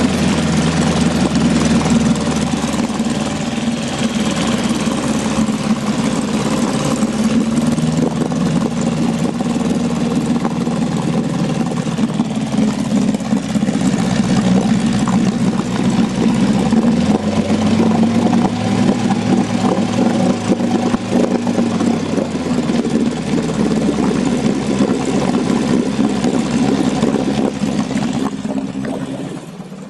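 Dory fishing boat's motor running steadily, its pitch drifting slightly up and down, with the sound dropping away near the end.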